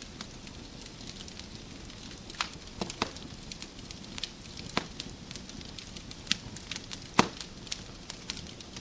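Wood fire crackling in a fireplace: irregular sharp pops and snaps of burning logs over a steady low hiss, with the loudest snap about seven seconds in.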